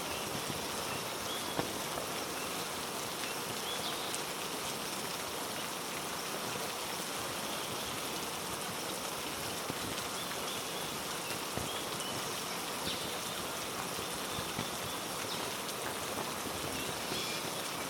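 Steady heavy rain falling on rainforest foliage, with scattered drips and ticks of drops landing nearby.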